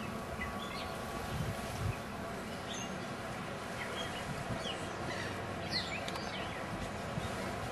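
Small birds chirping: short, quick high calls scattered through, over a steady background hiss.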